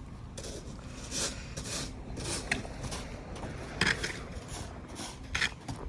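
A series of short, rough scraping sounds at irregular intervals over a steady low rumble.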